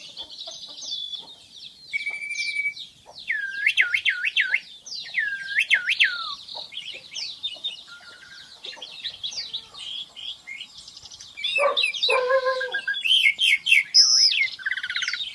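Asian pied starling (jalak suren) singing a varied, chattering song of whistles and squeaky notes, with two quick runs of looping, dipping whistles about three and five seconds in, and harsher, lower calls about twelve seconds in.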